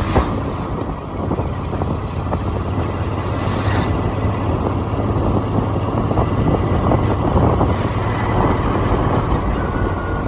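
A motorcycle being ridden along a road: a steady engine hum mixed with road and wind noise. There are two brief high-pitched swishes, one at the start and one about three and a half seconds in.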